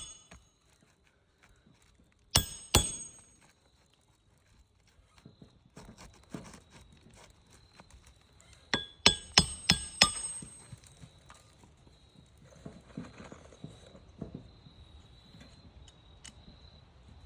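Hammer blows ringing on metal: two strikes, then a quick run of about five strikes near the middle, with light scraping and handling between.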